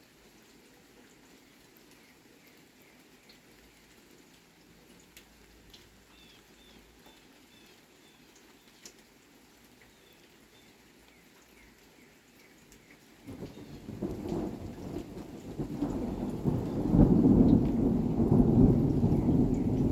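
Thunderstorm: steady light rain with faint bird chirps, then about thirteen seconds in thunder breaks out suddenly and rumbles on, growing louder toward the end.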